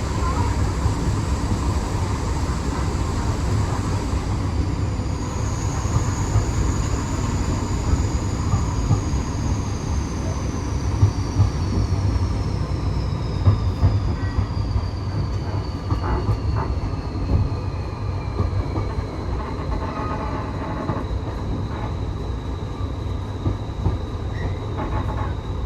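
Heritage railway passenger coach running along the track: a steady low rumble of wheels on rail, with a thin high whine that slides down in pitch over several seconds and then holds steady.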